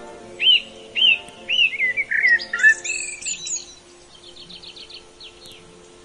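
A songbird singing: three or four loud slurred whistled notes about half a second apart, then a quick jumble of higher notes, then a softer rapid chatter. Soft background music with steady held tones plays underneath.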